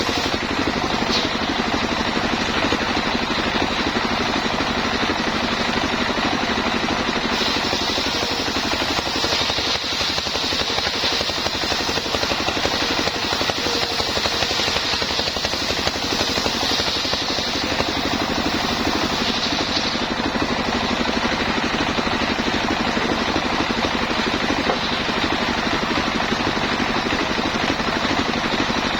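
Homemade sawmill running steadily under engine power. A brighter, higher hiss comes over it from about seven seconds in and drops away around twenty seconds in.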